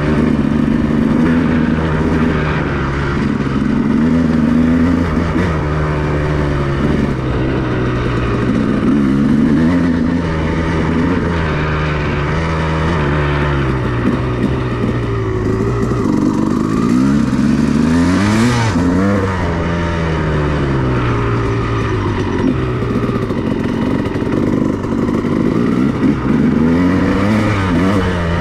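2002 Honda CR250R's 250 cc two-stroke single-cylinder engine being ridden, its revs rising and falling repeatedly as the rider works the throttle, with a sharp rev up and back down about two-thirds of the way through.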